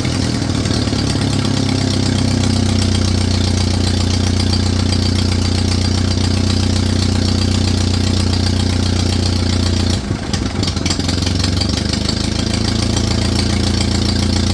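Ferguson TEA20 tractor's four-cylinder petrol engine running steadily, with a brief stumble about ten seconds in. Its worn carburetor throttle shaft pulls a vacuum leak that spoils the idle, and burnt-out exhaust manifold gaskets make it very loud.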